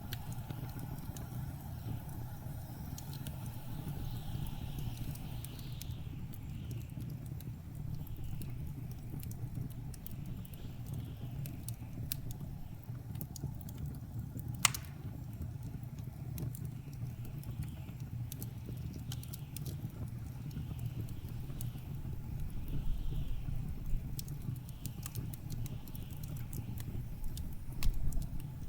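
Wood fire crackling in a fireplace, with scattered small pops and one sharp, louder pop about halfway, over a steady low rumble of blizzard wind.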